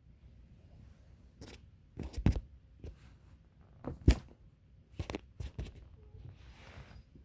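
A series of knocks and thumps, the loudest about four seconds in, followed by a brief soft rustle near the end.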